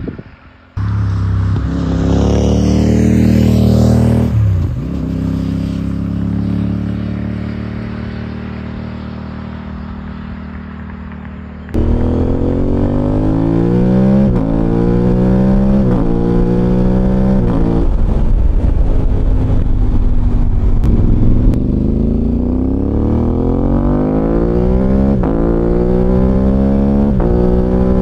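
Aprilia Tuareg 660's parallel-twin engine running through a Dominator HP6 full exhaust while riding. First the engine note holds, then slowly falls in pitch as the bike slows. About twelve seconds in it turns louder, with the revs climbing again and again, each climb cut by a gear change under acceleration.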